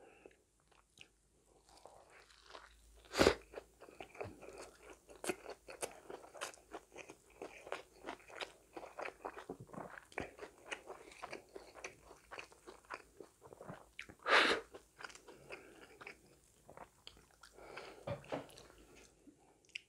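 Close-miked chewing of a mouthful of Korean rice burger, a bun of pressed rice around a barbecue patty with lettuce. It is a steady run of short mouth sounds, with two louder sounds about three seconds in and at about fourteen seconds.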